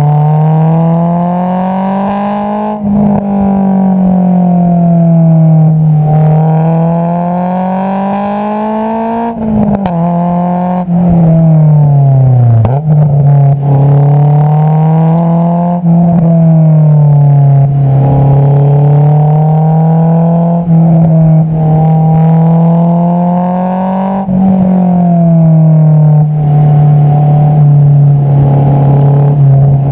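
Honda S2000's four-cylinder engine through an Invidia Q300 exhaust, heard at the tailpipe, its note climbing and falling again and again under throttle and lift-off. There is a brief break in the sound about 3 s in, and a longer falling run from about 10 to 13 s before it pulls again.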